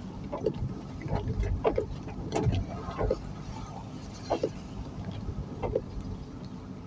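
A vehicle on the move, with a steady low rumble of engine and road, and short pitched squeaks or chirps coming every second or so.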